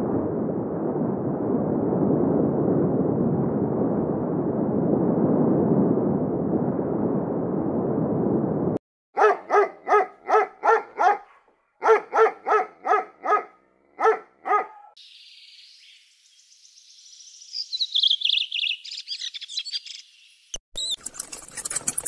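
A small terrier barking in quick runs of sharp yaps, six, then five, then two. The barks come after a steady low rushing noise and are followed by high-pitched chirping.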